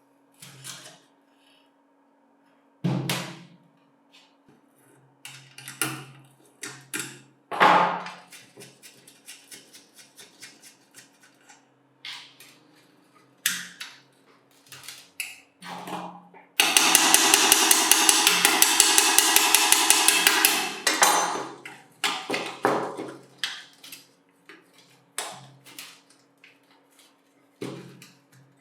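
Workshop tool work on metal: scattered knocks and taps, with a loud, rapid, even rattle lasting about four seconds past the middle. A faint steady hum runs underneath.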